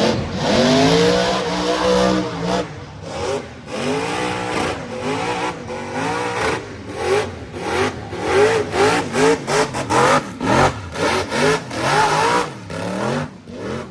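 Drift car engine revving hard, its pitch climbing and dropping over and over in quick succession.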